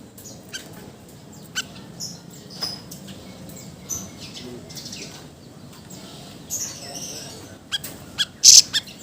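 Siri siri songbird calling in short, sharp chirps scattered through, with the loudest burst of calls about eight and a half seconds in.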